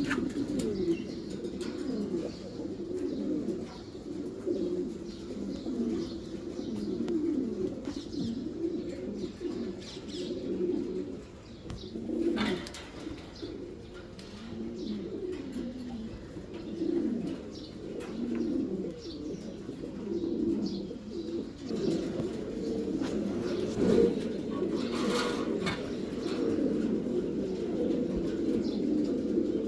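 Many pigeons cooing at once, their low, overlapping coos running continuously, with a few faint higher chirps from smaller birds.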